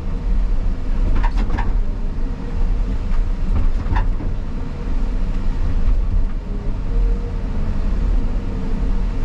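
Caterpillar 323 excavator's diesel engine running steadily under work, with a few short knocks about a second in and again around four seconds.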